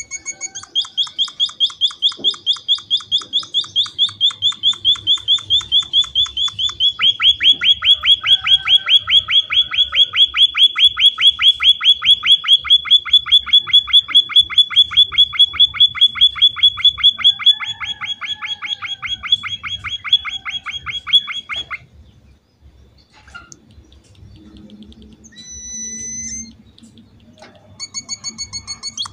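Emprit (munia-type finch) calling in a long, rapid series of sharp, high chirps, about five a second, for some twenty seconds. It stops, a single short whistled call follows a few seconds later, and the chirping starts again near the end. This is the steady 'gacor' calling used as a lure to set other emprit calling back.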